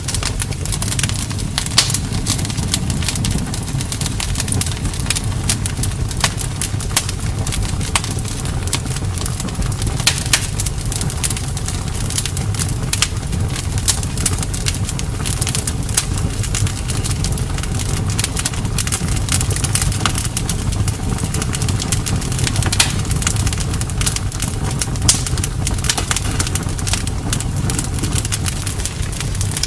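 Campfire burning: wood crackling and popping often, over a steady low rumble.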